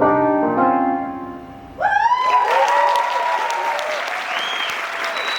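Piano-led music ending about a second and a half in, then an audience breaking into applause with cheering and whoops.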